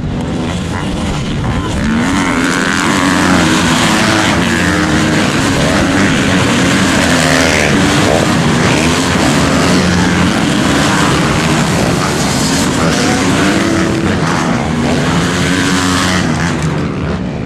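Several motocross bikes racing, their engines revving up and down in overlapping, wavering pitches, loud and continuous.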